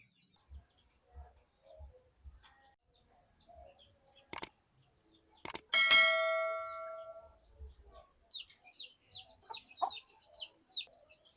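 A sharp metallic clang that rings with several steady tones and fades over about a second and a half, after a couple of clicks. Near the end a small bird gives a quick run of high chirps.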